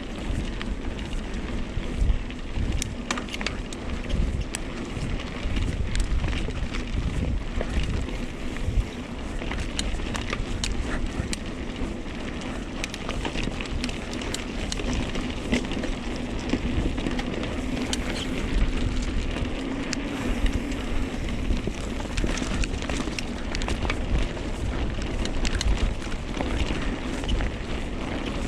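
Mountain bike rolling down a dirt trail: the tyres rumble and crunch over the ground. Frequent clicks and rattles come from the bike over bumps, with wind buffeting the microphone.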